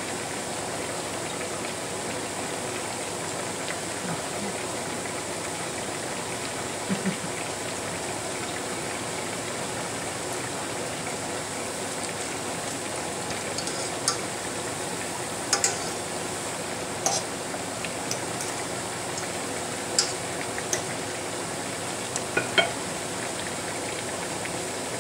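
Fleischkrapfen frying in hot fat in a pan, a steady sizzle, with a handful of short sharp clinks of a utensil against the pan, most in the second half.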